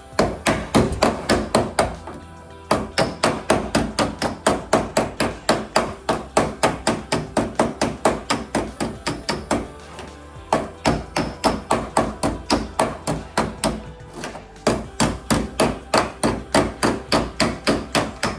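Hammer striking the sheet steel of a 1968 Volkswagen Beetle's floor area, flattening bent metal before welding: steady blows about three a second, in runs broken by three short pauses.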